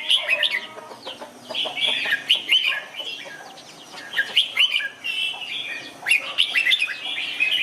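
Red-whiskered bulbul song: bursts of quick, bright chirping phrases separated by short quieter gaps, with the longest lull about three to four seconds in.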